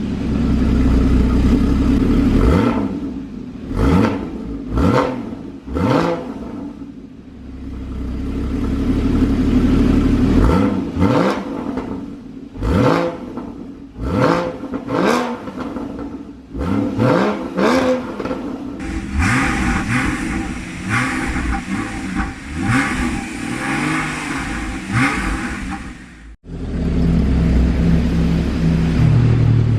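Porsche 981 Cayman S's 3.4-litre flat-six engine revved through its exhaust in a long series of quick throttle blips, each rising and falling in pitch. About two-thirds in the engine holds a steadier note, then the sound cuts suddenly to a low, steady idle.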